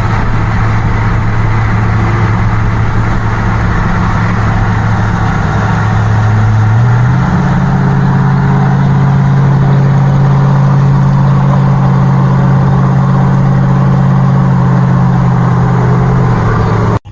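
A truck engine running steadily with a low exhaust drone. Its pitch steps up to a higher steady speed about seven seconds in and holds there.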